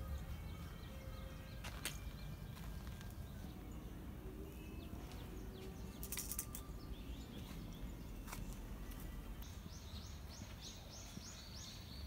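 Small birds chirping faintly over a low rumble, with a few sharp clicks. Near the end one bird sings a rapid run of about ten high notes, roughly four a second.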